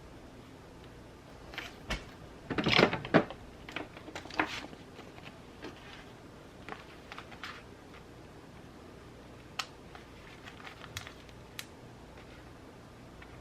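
Journaling supplies handled on a desk: a cluster of rustles and taps about two to four and a half seconds in, loudest around three seconds, then scattered light clicks. A steady faint hiss of rain runs underneath.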